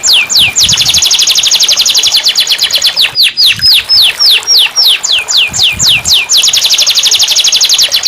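Domestic canary singing in repeated tours: a run of falling whistled sweeps, about five a second, switching to a very fast, even trill; after a brief break about three seconds in, the same pattern of sweeps and trill comes again.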